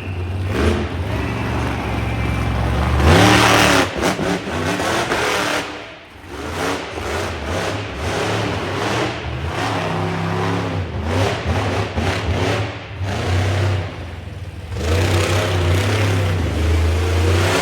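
Monster truck engine revving hard, its pitch repeatedly rising and falling with the throttle, loudest about three seconds in.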